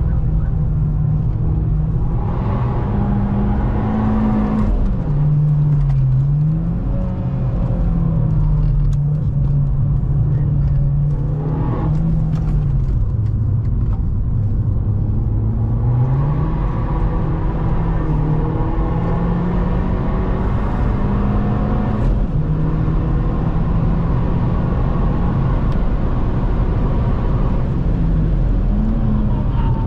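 Opel Astra OPC's turbocharged 2.0-litre four-cylinder heard from inside the cabin while driven hard on track, its note climbing through the revs and dropping several times at gear changes and lifts for corners, over a constant rumble of road and wind noise.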